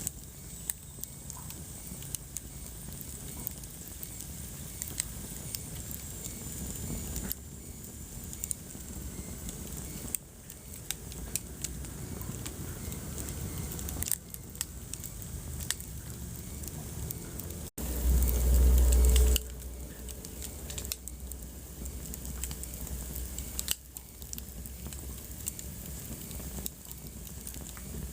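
Wood fire crackling in a fireplace: scattered sharp pops and snaps over a low rumble of burning. About two-thirds of the way through the sound briefly cuts out, followed by a loud low rumble lasting about a second and a half.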